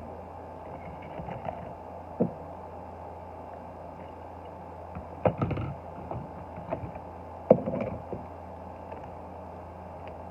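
Diecast toy cars being handled and set down on a hard surface: scattered small knocks and clatters, with two louder clusters in the second half, over a steady low hum.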